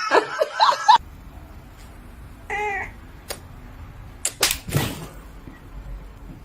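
A cat's single short meow, rising and falling in pitch, about two and a half seconds in, followed by a few sharp clicks or knocks. Before it, in the first second, a voice with music cuts off suddenly.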